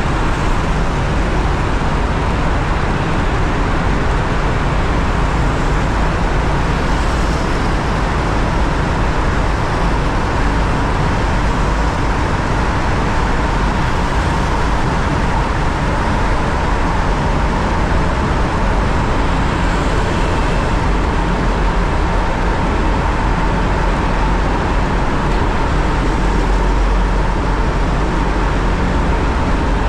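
Loud, steady traffic and riding noise inside a road tunnel, heard from a moving motorcycle: engine, tyre and wind noise trapped in the enclosed tube, which makes it very noisy.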